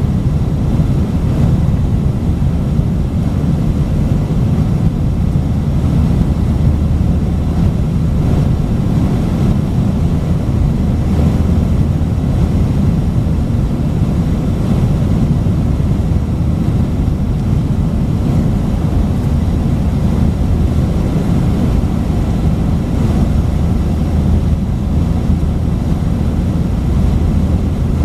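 Steady low drone of an Airbus A319's IAE V2500 engines and airflow as heard inside the passenger cabin, holding an even pitch and level.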